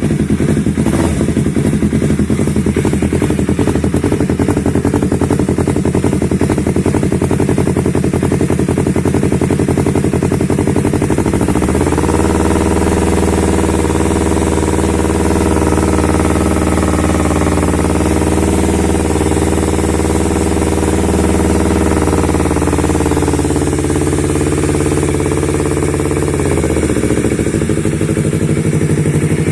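Yamaha MT-25's 250 cc parallel-twin engine breathing through a LeoVince Cobra aftermarket racing exhaust, idling steadily. About twelve seconds in it is revved up and held at raised revs for some ten seconds, then eases back down to idle near the end.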